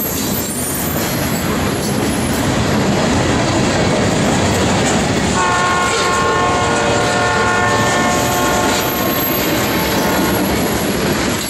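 Freight train running on the rails with a steady rumble, then about halfway through the horn of an ALCO diesel locomotive sounds one long multi-tone blast lasting about four seconds.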